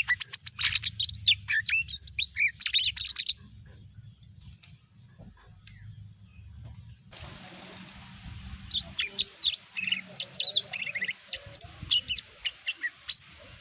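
Lesser green leafbird (cucak ijo mini) singing: a rapid run of high chirps and whistled notes for about three seconds, a pause, then a second burst of sharp high notes in the second half.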